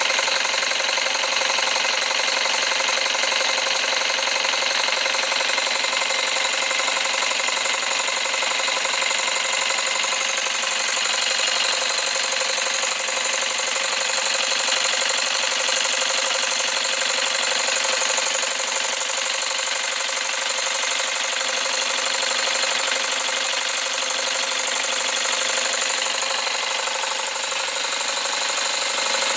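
Custom Jensen 20G model steam engine running steadily on live steam: a fast, even exhaust beat with steam hiss, with the heat turned up to 110.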